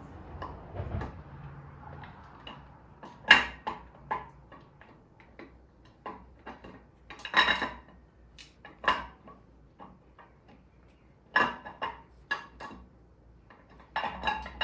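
Irregular metal clinks and knocks, a few sharper than the rest, as the camshaft is worked out of a small-block Chrysler 360 Magnum engine block.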